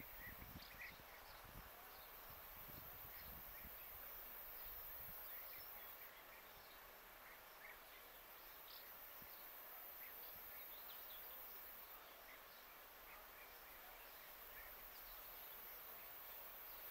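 Near-silent ambience with faint, scattered short chirps of small birds, and a few low thumps in the first couple of seconds.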